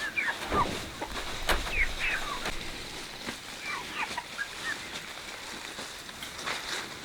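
Chickens calling with short, falling clucks, many in a row, mixed with a few sharp clicks.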